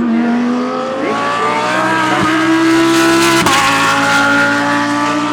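GT3 race car engine accelerating hard, its pitch rising, with an upshift about three and a half seconds in, after which the revs climb again.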